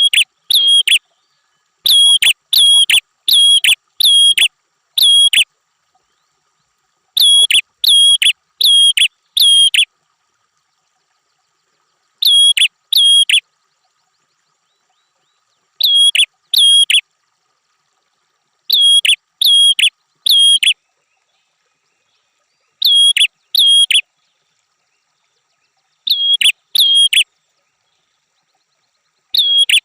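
A prinia calling: short, sharp, identical whistled notes in quick runs of two to five, separated by a few seconds of dead silence, as from an edited, looped masteran recording.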